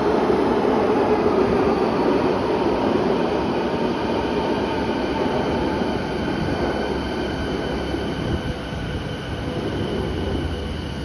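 Electric commuter train pulling into a station and slowing, its running noise gradually easing off while a high-pitched brake and wheel squeal comes in partway through and grows stronger toward the end.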